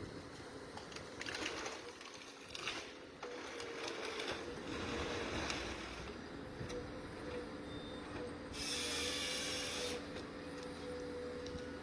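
Forestry machine's diesel engine running with a steady whine, broken by several short bursts of hissing noise; a louder hiss lasts about a second and a half near the end.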